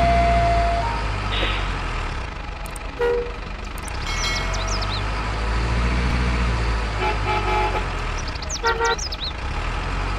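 Short vehicle horn toots, a few times, over a steady low rumble of passing traffic.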